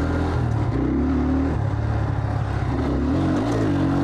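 Enduro motorcycle engine running at fairly low revs while riding through mud, its pitch rising and falling with the throttle.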